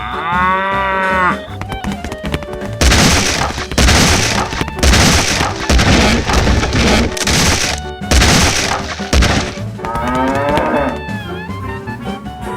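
Cow mooing sound effect over background music, a long drawn-out moo in the first second and a half. This is followed by several seconds of loud, noisy chunks of sound, then a second bending call near the end.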